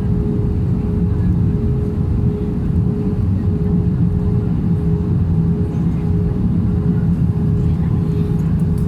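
Steady airplane cabin noise: a loud, even low rumble with a constant hum that neither rises nor falls.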